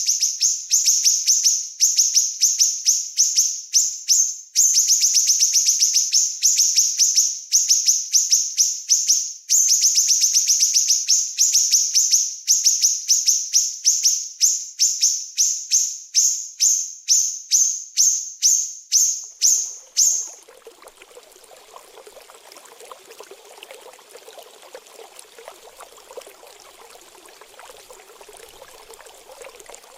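Small songbird's very high-pitched, rapid trilling song, in long unbroken runs that break into shorter repeated bursts, the kind used as a training recording for cage birds. It stops about 20 s in, and a quieter sound of running water begins.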